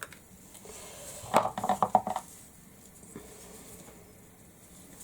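A short burst of clinking and knocking, lasting under a second, about a second and a half in: hard craft items, with a ringing ring to them, being handled on a work table.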